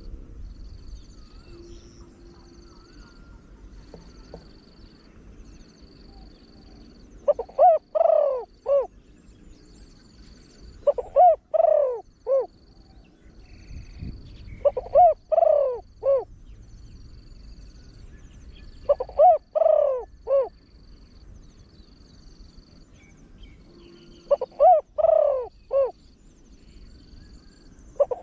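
Spotted dove cooing with a deep voice: five phrases of several coos each, about one every four seconds. A faint high note repeats steadily in the background.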